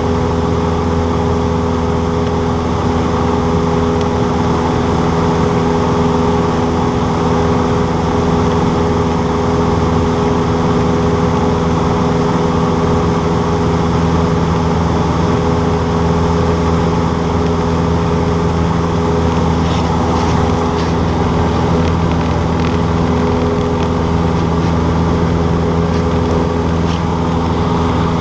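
Cessna 152's four-cylinder Lycoming engine and propeller running steadily at a constant setting, with a few faint ticks about two-thirds of the way through.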